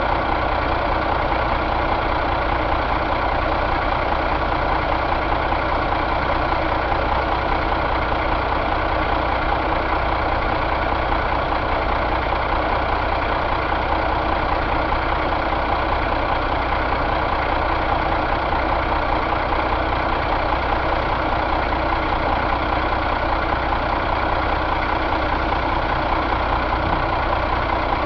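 1999 Caterpillar C12 inline-six diesel engine idling steadily, with an even, unchanging pitch.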